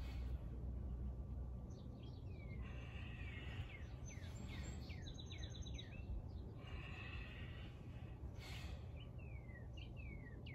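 Birds chirping: a run of short falling chirps and a brief rapid trill, over a low steady rumble of background noise.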